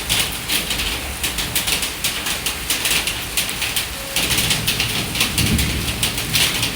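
Heavy rain falling and splattering in a dense, steady hiss of many drops. A low rumble joins it about four seconds in.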